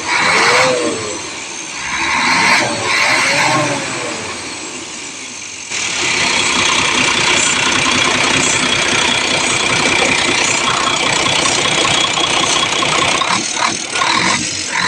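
Isuzu 6WF1 truck engine running: its pitch rises and falls twice, then about six seconds in it jumps to a louder, steady run that holds.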